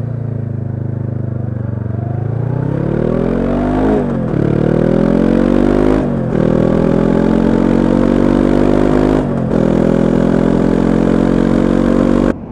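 2013 Honda CB500X's parallel-twin engine through a Staintune exhaust, pulling away with a rising pitch and shifting up twice, about four and six seconds in. It then runs steadily at cruising speed, eases briefly near nine seconds, and cuts off suddenly near the end.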